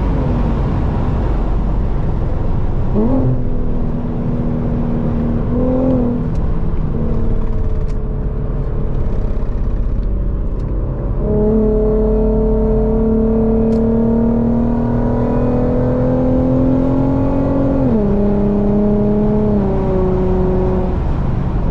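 Infiniti Q50 engine heard from inside the cabin at highway speed over steady road noise, with the automatic transmission changing gear. The engine pitch jumps up about three seconds in, climbs slowly through the middle, then drops sharply on an upshift near the end.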